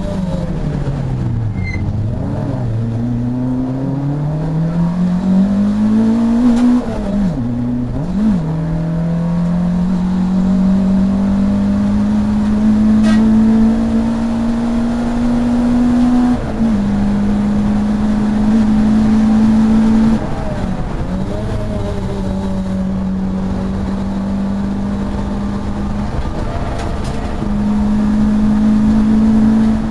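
Saloon race car engine heard from inside the car on track. Revs drop for a corner about two seconds in, then climb back up through the gears, with quick gear changes around eight and seventeen seconds and a brief lift near twenty seconds. Otherwise it runs flat out at high revs.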